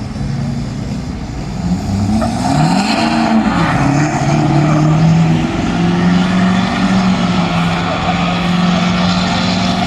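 Truck engine revving, rising and falling in pitch, then held at steady high revs, loud.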